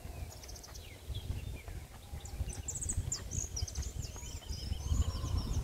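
Several birds chirping and trilling with short, high calls, including a quick run of evenly spaced notes about four seconds in, over a low, uneven rumble.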